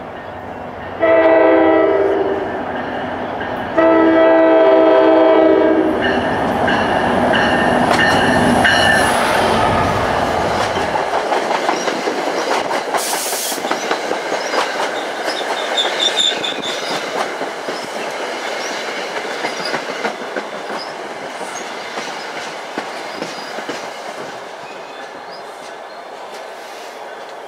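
NJ Transit passenger train sounding its horn in two long blasts as it nears the station, then its coaches rolling past close by, wheels clattering and rattling over the rails, the noise slowly dying down toward the end.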